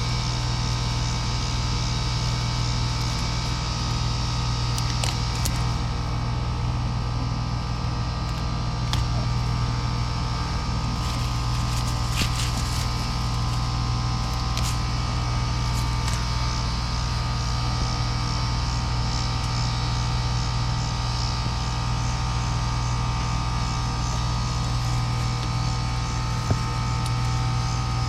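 Outdoor air-conditioner condensing unit running steadily, its compressor and condenser fan giving a constant hum. A few light clicks and taps come over it.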